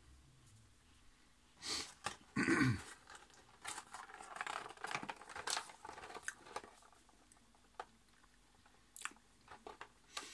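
Close-up chewing and crunching of a shortcake lemon whirl biscuit, mixed with crackles and clicks of a cardboard box being handled. A louder thump comes about two and a half seconds in, and the sounds thin out to scattered clicks near the end.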